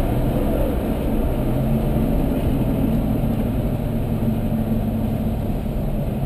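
Porsche engine running steadily at an even pace, with a constant rumble of road and wind noise and no revving.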